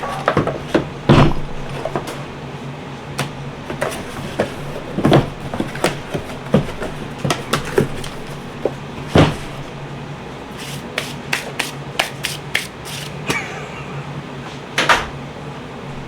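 Scattered clicks, knocks and light clinks of engine parts and tools being picked up and set down on a workbench. A quick run of lighter clicks comes about two thirds of the way through, and a steady low hum sits underneath.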